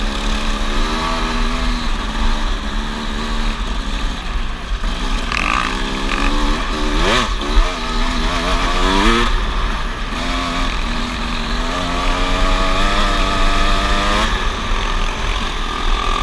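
Enduro dirt bike engine running under load, its pitch climbing and falling with throttle and gear changes, with a sharp rev up and back down about seven seconds in.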